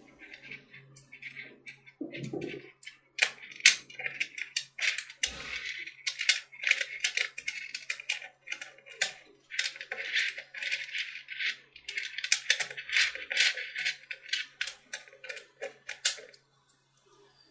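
Small magnetic metal balls clicking and rattling against one another as they are handled and snapped together, in quick runs of sharp clicks that stop shortly before the end.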